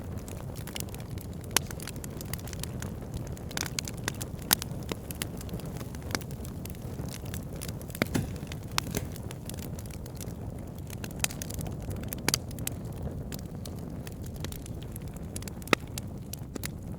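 Wood fire burning: a steady low rush of flames with frequent sharp crackles and pops from the burning logs, a few louder pops standing out, one of the loudest near the end.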